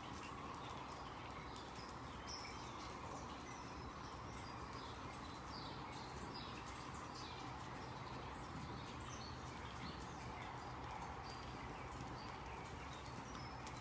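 Small birds chirping, many short high calls that slide downward, scattered throughout. Under them are a steady background noise and faint hoofbeats of a horse cantering on soft arena footing.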